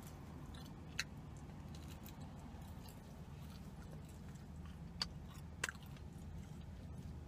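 Chewing and biting a giant sesame seed cookie, with a sharp crunch of a bite about a second in and two more a little after five seconds.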